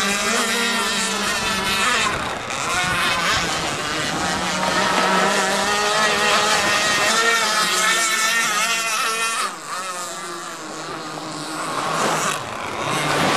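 Twin Zenoah G26PUM 26cc two-stroke engines of a large RC gas boat running at speed, their pitch wavering. About two-thirds of the way through the sound drops and fades for a couple of seconds, then comes back up loud near the end.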